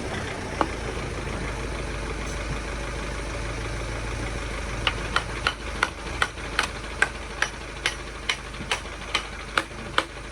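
A freshly refitted motocross wheel spun by hand, something on it ticking once per turn: from about halfway, a run of sharp metallic ticks, about three a second and slowing as the wheel coasts down. A steady mechanical hum runs underneath.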